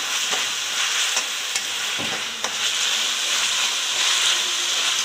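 Chopped onion and capsicum sizzling in hot oil and sauces in a metal kadhai as they are stirred, with a steady hiss and the spoon clicking against the pan a few times in the first half.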